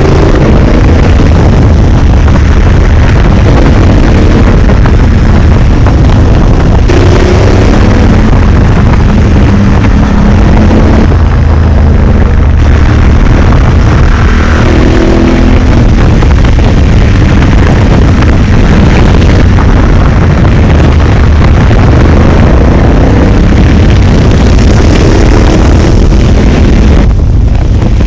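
Motorcycle riding at speed, its engine pitch rising and falling under heavy, distorting wind noise on the camera microphone.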